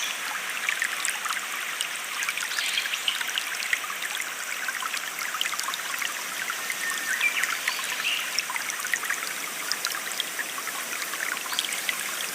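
Small stream trickling and babbling steadily over stones, a continuous bubbling wash dotted with tiny splashes.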